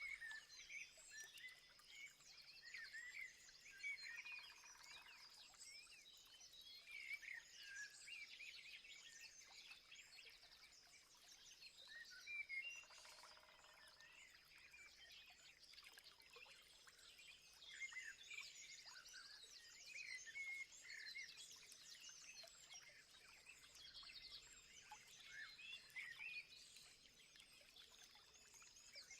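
A faint chorus of many small birds chirping and calling over one another, with a steady high-pitched whine underneath. A lower call stands out twice.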